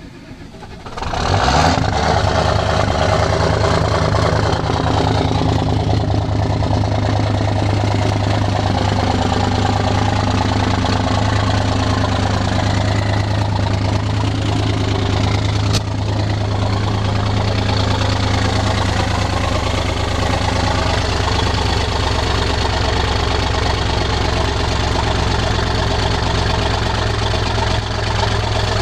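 Modified Ford 7.3L Powerstroke V8 turbodiesel cold-starting after sitting over a week in frosty weather: it catches about a second in and settles straight into a loud, steady idle.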